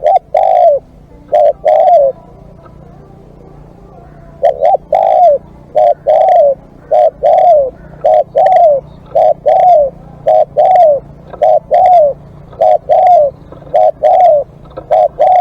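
Spotted dove cooing loudly: short, downward-curving coo notes, mostly in pairs. A few come at the start, then a pause of about three seconds, then an unbroken series of paired coos.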